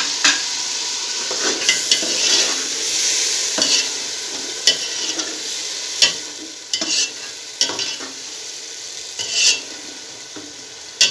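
Green peas and tomato masala sizzling in hot oil in a metal pot while a metal ladle stirs them. The ladle scrapes and knocks against the pot about once a second, and the sizzle slowly grows quieter.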